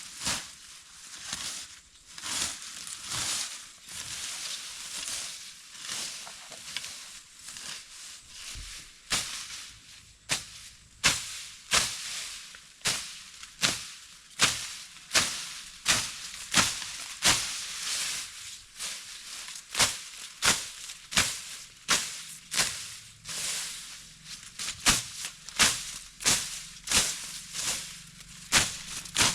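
A knife chopping and trimming dragon fruit stems: a long series of sharp cuts, about one or two a second, steadier and more evenly spaced in the second half.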